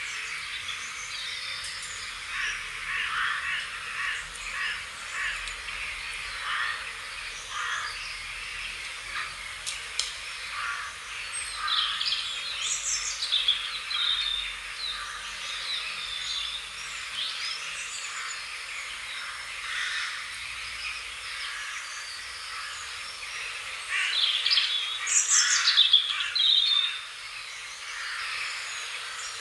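Wild birds singing and chirping, many short calls overlapping, with a louder run of calls near the end.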